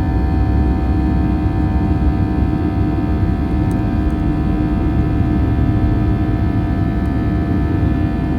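Steady cabin noise inside a Boeing 737-800 in flight: a low rumble of airflow with the CFM56 engines' steady hum of several fixed tones layered on top.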